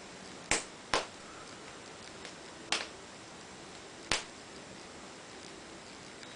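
Wood fire burning in a fireplace, crackling with four sharp pops over a faint steady hiss.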